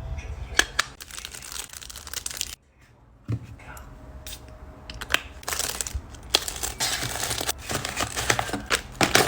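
Plastic packaging crinkling and rustling as it is handled, in irregular bursts with a few sharp clicks. It drops off for under a second about a third of the way in, then rustles more steadily.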